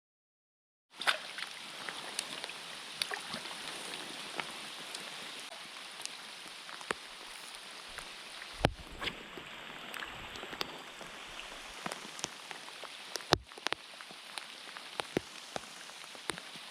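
Heavy rain falling, a steady hiss with many close, sharp drop clicks. Two louder knocks stand out, one about halfway through and one near the end. The sound cuts in after about a second of silence.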